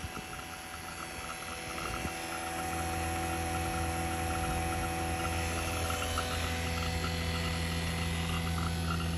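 Fieldpiece VPX7 vacuum pump running steadily with a low hum, evacuating an air-conditioning system; it gets louder about two seconds in. Insects chirp quickly and steadily in the background.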